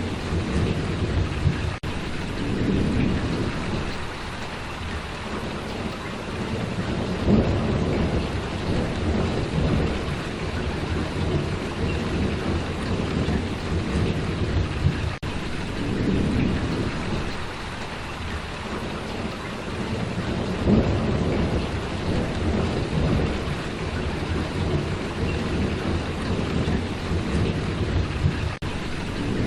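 Steady heavy rain, with a low rumble swelling and fading every few seconds.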